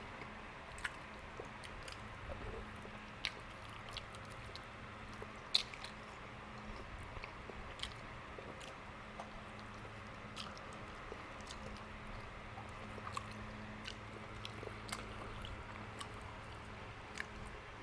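Close-up eating sounds of a man gnawing and chewing barbecued pork ribs off the bone: scattered short clicks and smacks of the mouth, every second or two, over a faint steady hum.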